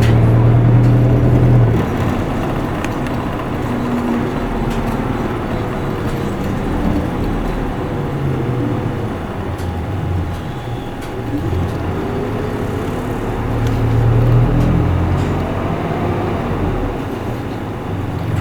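Isuzu Erga Mio bus's four-cylinder diesel engine heard from inside the cabin while driving, its note rising and falling with throttle. It is loudest at the start and again about three-quarters of the way through.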